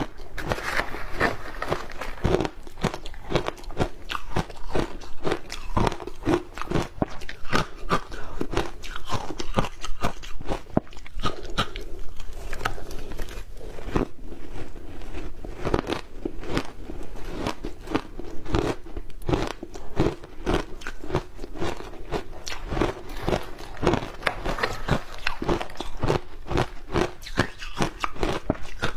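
A person biting and chewing ice coated in matcha green tea powder: close, continuous crunching, with many sharp irregular cracks as the ice breaks between the teeth.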